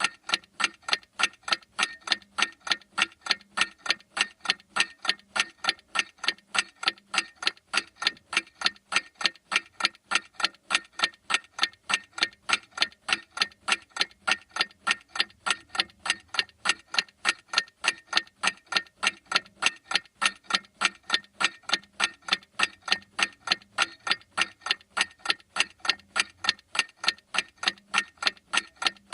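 Clock ticking steadily, with sharp, evenly spaced ticks several times a second.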